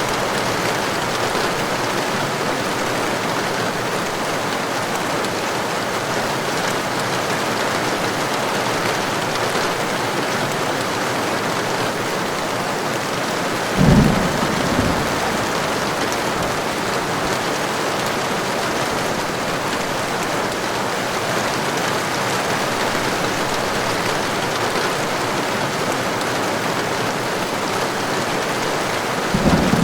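Heavy rain falling steadily, with a short, loud clap of thunder about halfway through and another starting near the end.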